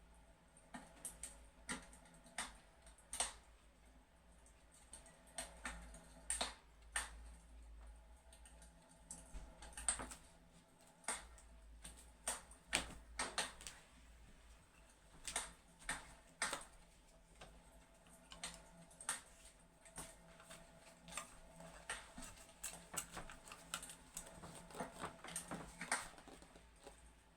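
Fireplace crackling: irregular sharp clicks and pops at uneven intervals, over a faint steady hum.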